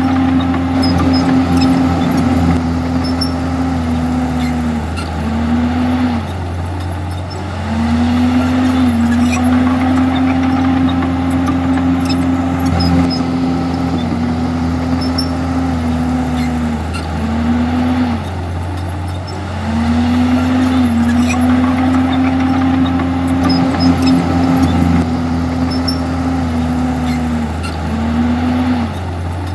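Komatsu D51EX bulldozer's diesel engine running hard, its pitch repeatedly sagging and climbing back as the machine takes and sheds load.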